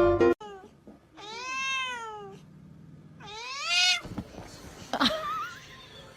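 A cat meowing: two long, drawn-out meows that rise and then fall in pitch, then a few faint clicks and a shorter wavering cry.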